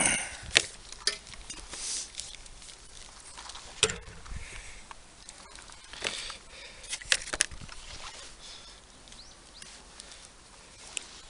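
Hand tools at work: a series of sharp clicks and snaps with scraping and rustling between them. The sharpest snap comes about half a second in, and more follow near the middle and later on.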